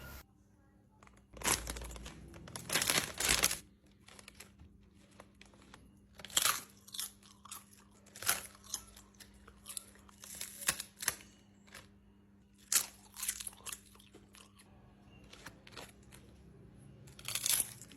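Crisp roasted seaweed snack being bitten and chewed close to the microphone, with crunches coming in irregular bursts a second or two apart. The seaweed is very crispy.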